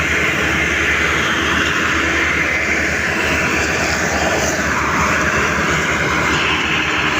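Tractor diesel engines running hard under load, a steady, loud drone.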